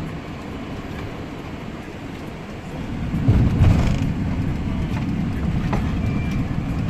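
A van on the move: low engine and road rumble, louder from about three seconds in.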